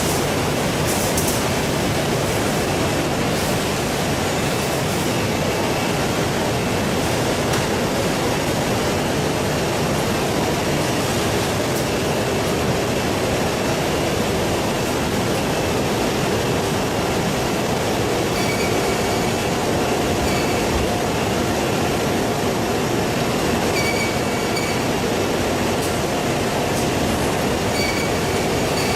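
Steady clattering rumble of processing-line machinery running continuously, with faint short squeaks now and then in the second half.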